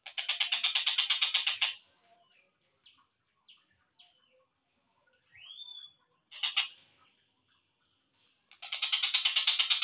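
Tengkek buto kingfisher calling, played back slowed down: a fast rattling trill of repeated high notes, then a gap of short scattered chirps and one rising-then-falling whistle, then the rattling trill starting again near the end.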